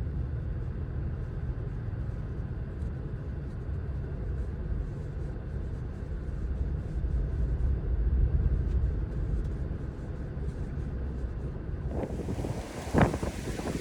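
Strong Santa Ana wind buffeting the microphone as a steady low rumble. About twelve seconds in it changes to a wider gusty hiss, with a couple of sharp knocks near the end.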